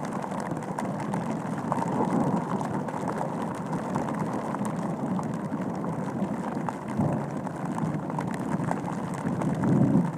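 Rain falling on a Gore-Tex bivy cover, heard from inside the bag: a steady rushing noise with scattered taps of drops.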